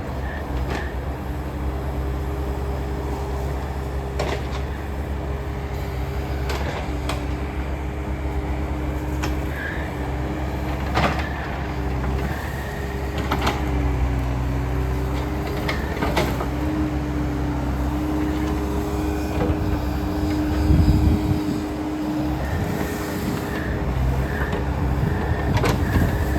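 Takeuchi tree-clearing machine's diesel engine running steadily with a humming tone that shifts in pitch as it works, and a few sharp knocks and cracks along the way.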